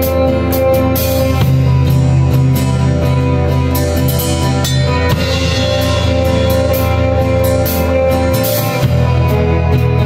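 Band music with no singing: a drum kit keeping a steady beat over sustained bass notes and guitar.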